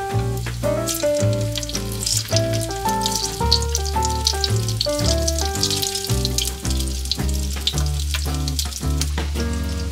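Breaded pork cutlets sizzling and crackling as they shallow-fry in oil in a pan, turning golden brown. Background music with a bass line plays throughout.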